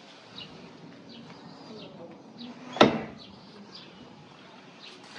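A single sharp knock or bang about halfway through, the loudest sound, over faint bird chirps repeating every second or so.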